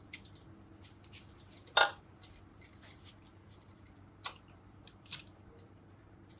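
Small clicks and clinks of hand tools and metal parts being handled during motorcycle engine reassembly, with the sharpest clink about two seconds in and a few lighter ones later.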